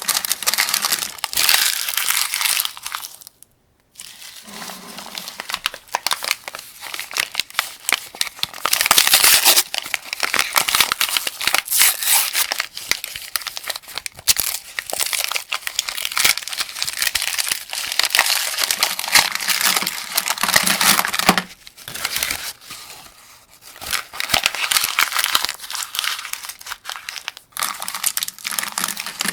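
Cartridges being loaded one at a time into a 75-round AK-47 drum magazine: a dense run of metallic clicks and rattles, with a brief silence about three and a half seconds in.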